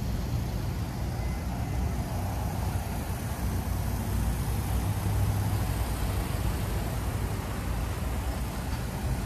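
A vehicle engine idling steadily, a low hum with no sharp events.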